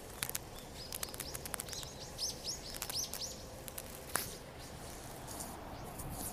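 A small bird chirping: a quick run of about six short high notes, each sliding down in pitch, about two seconds in. Scattered faint clicks and a low steady outdoor hum lie underneath.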